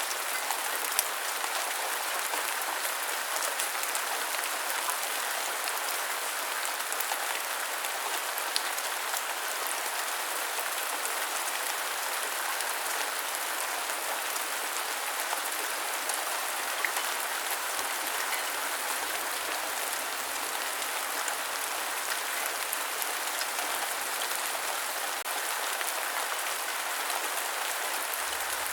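Steady rain falling and pattering on surfaces, an even hiss with scattered sharper drop ticks.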